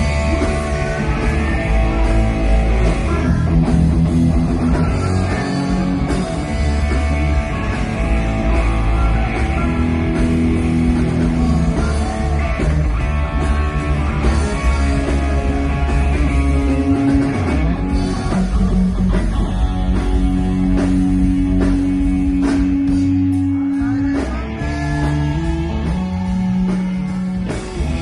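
A rock band playing live: guitars over bass and a drum kit, with singing.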